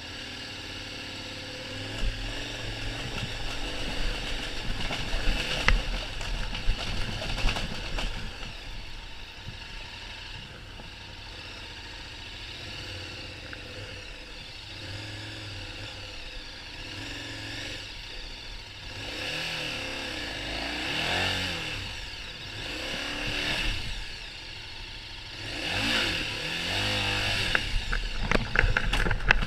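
KTM 1190 Adventure's V-twin engine running and revving over rough ground along railway tracks, its pitch rising and falling several times, with scattered knocks from the bike jolting. There is a sharp loud jolt at the very end.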